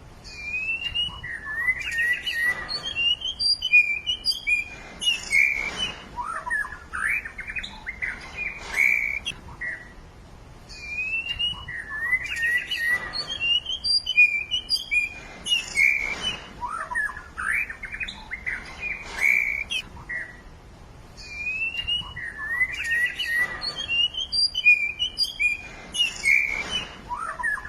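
Songbird singing: a varied phrase of quick chirps, trills and whistled up-and-down notes that repeats in nearly the same form about every eleven seconds, with short pauses between phrases.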